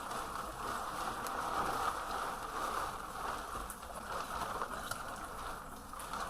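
Heavy rain falling steadily, a continuous hiss with scattered drop ticks.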